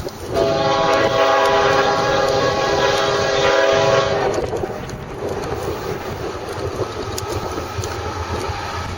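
BNSF locomotive horn sounding one loud, steady chord blast of about four seconds. The horn then gives way to the rumble of the train passing at about 60 mph.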